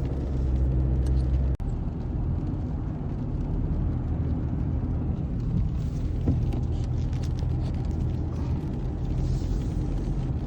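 Car engine and road noise: a steady low drone with a brief dropout about a second and a half in.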